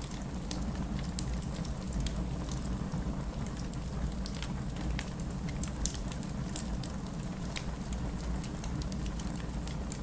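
Wood fire burning steadily with a low rumble and frequent small crackles and pops, one sharper pop near the middle.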